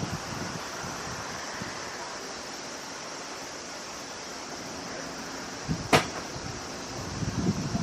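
Steady hiss of wind and outdoor background noise in a lull between gusts on the microphone, with one sharp knock about six seconds in.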